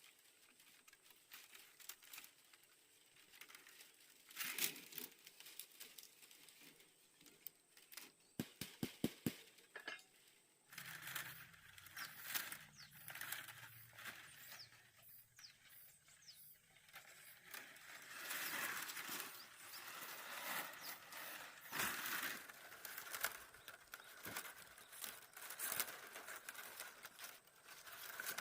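Thin bamboo strips clicking and rustling as they are woven by hand into a pot, with a quick run of sharp clicks about eight to nine seconds in and denser rustling in the second half.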